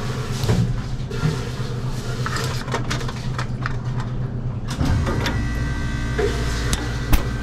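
Steady low mechanical hum of running refrigeration equipment. Over it come several sharp clicks and knocks as the solenoid coil is worked off the hot gas valve and a magnet is held to the valve. The hum grows fuller and deeper about five seconds in, and there is a sharp knock near the end.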